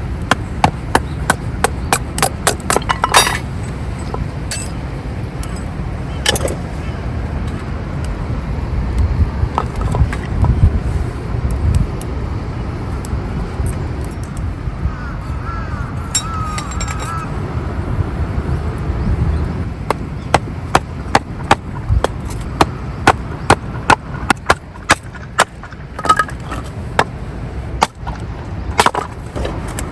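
Sharp snapping clicks in quick runs of about four a second near the start and again in the last third, over a steady low rumble.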